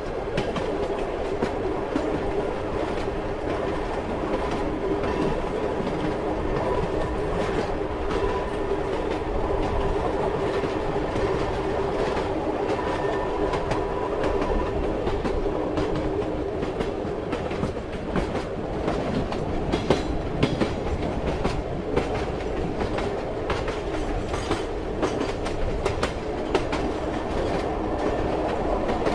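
Train running on rails: a steady rumble with a faint hum, and the clickety-clack of the wheels over rail joints as many irregular sharp clicks.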